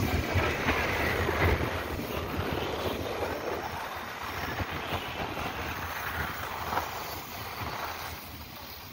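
Flatcars of a long freight train rolling past, wheels rumbling and clicking on the rails, the noise slowly fading as the train goes by.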